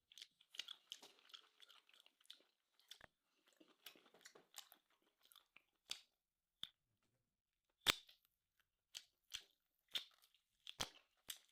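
Close-up chewing of grilled steak: faint, scattered wet clicks and crunches, with a louder crunch about eight seconds in and a run of sharp clicks after it.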